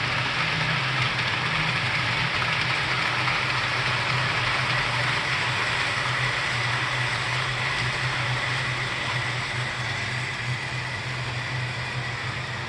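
HO-scale model subway trains running on the layout's track: a steady electric-motor whine over a rolling wheel-on-rail hum, easing off slightly near the end.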